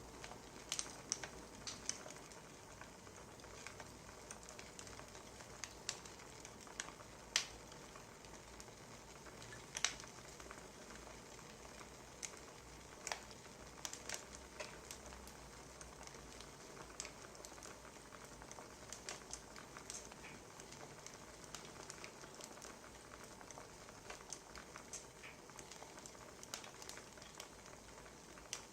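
Wood fire crackling: irregular sharp pops and snaps over a steady low hiss, a few of them louder than the rest.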